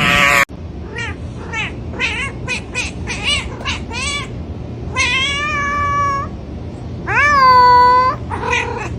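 A cat meowing over and over: a quick run of about eight short, chirpy meows, then two long drawn-out meows, the second the loudest.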